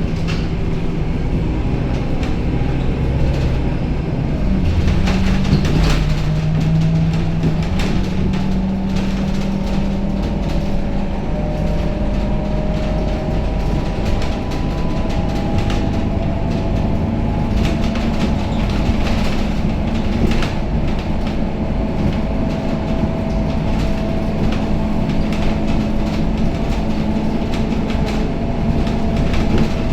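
Scania K270UB city bus heard from inside the cabin while driving: a steady engine hum with a faint whine that drifts slowly in pitch, and frequent small rattles and knocks from the body and fittings.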